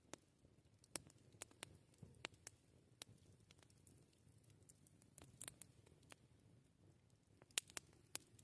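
Campfire crackling quietly: irregular sharp pops and snaps from burning wood over a faint low rumble, with the loudest pop near the end.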